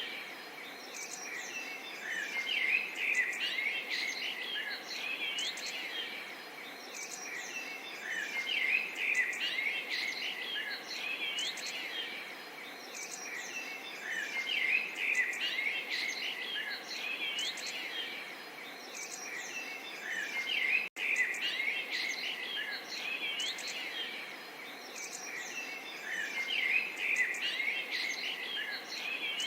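Small songbirds chirping and singing in quick, overlapping phrases over a light, steady babble of water. The sound cuts out for an instant about twenty-one seconds in.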